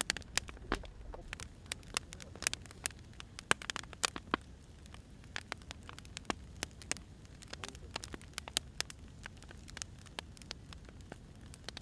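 Wood fire burning, its logs crackling with irregular sharp pops and snaps over a soft steady hiss.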